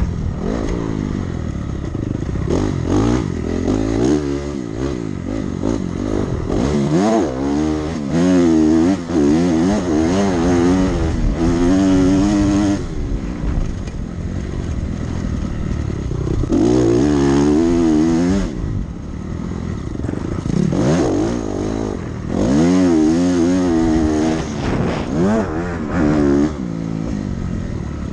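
Dirt bike engine under hard riding on a motocross track: the revs climb and drop over and over as the throttle is opened and rolled off. There are loud full-throttle pulls about a third of the way in, around the middle, and again near the end.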